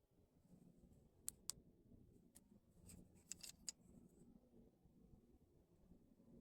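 Near silence with a faint low hum of unknown origin, fading away, and a few soft clicks.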